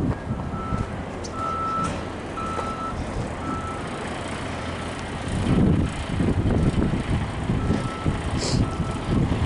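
A vehicle's reversing alarm beeping over the rumble of a running engine. The beeps fade in the middle and come back near the end.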